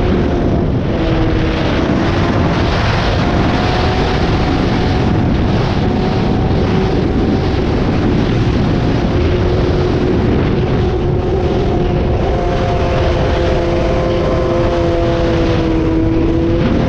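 Motorcycle engine running at a steady cruising speed under heavy wind rush, its pitch holding nearly level with only slight drifts.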